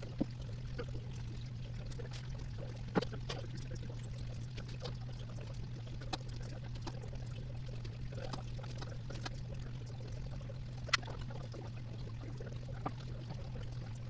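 Steady low hum with a few scattered light clicks and knocks, the sounds of hand work on a car during a wheel and tire swap.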